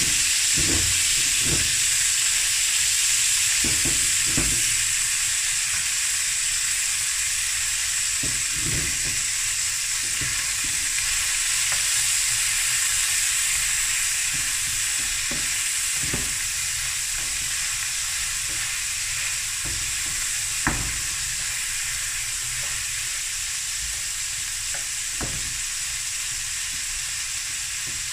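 Boerewors pieces, sliced red onion and jalapeños frying on high heat in a black wok-style pan: a steady high sizzle, easing slightly over time, with scattered knocks and scrapes of a wooden spatula stirring through the pan, one sharper knock about two-thirds of the way through.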